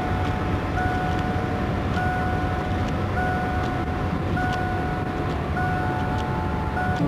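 Steady running noise inside a car in slow traffic, with a steady tone that sounds for about a second and repeats roughly every 1.2 s, and faint ticks now and then.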